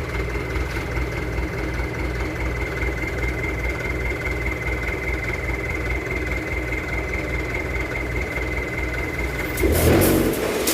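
Mitsubishi Canter dump truck's diesel engine idling steadily, with a thin steady high whine over it. Near the end, a louder clatter of clanking starts.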